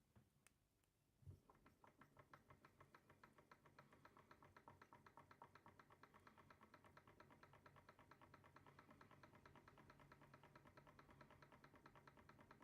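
UMS SE03 horizontal Stirling engine model running: a single knock about a second in, then fast, even, faint ticking that quickens a little over the first few seconds and settles into a steady rhythm.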